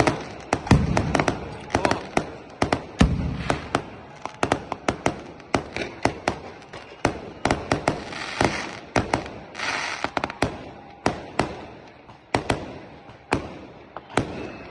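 Fireworks going off in rapid, irregular cracks and bangs, with a couple of deeper booms in the first few seconds and bursts of crackling hiss about eight and ten seconds in.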